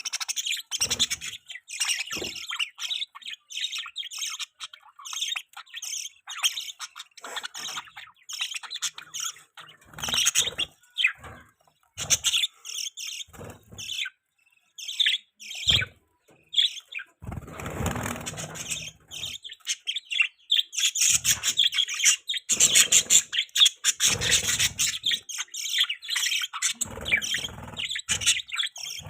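Several budgerigars chirping and chattering: a dense, continuous stream of quick high chirps and warbles, with a few short stretches of noisier sound mixed in.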